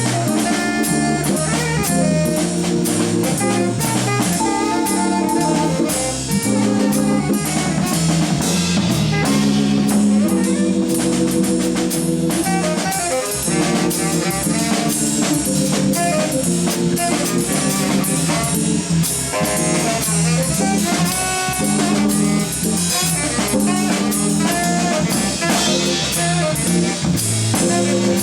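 Jazz organ trio playing live: tenor saxophone, organ and drum kit, with the drums busy and cymbals sounding throughout.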